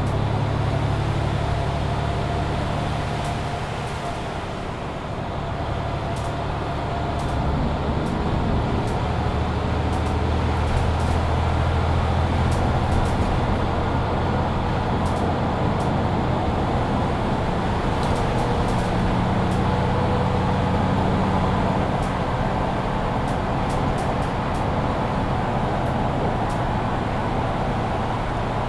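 Mercedes-Benz Citaro C2 hybrid city bus heard from inside while under way: a steady low engine and driveline drone with road noise, changing pitch a few times as the bus changes speed. Light ticks and rattles are scattered through it.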